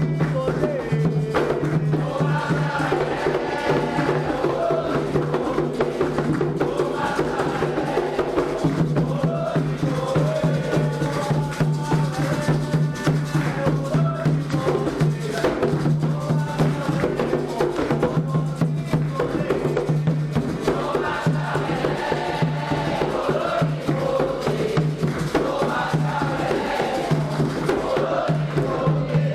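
Candomblé xirê music: voices singing together over driving hand drums and struck percussion, with a steady low hum underneath.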